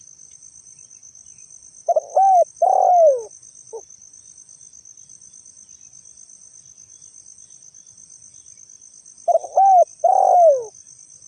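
Spotted dove (tekukur) cooing twice: each phrase is a couple of short coos and then a longer coo that falls in pitch. A steady, high, pulsing insect trill runs underneath.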